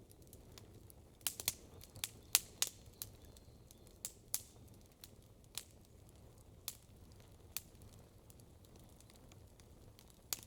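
Campfire wood crackling and popping: a quick cluster of sharp pops about a second in, then scattered single pops every second or so, over a faint low hiss.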